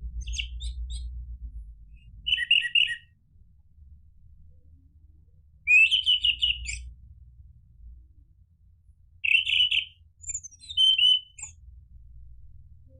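Orange-headed thrush singing in five short, chirping phrases of a second or less, with pauses between them, over a faint low rumble that is strongest at the start.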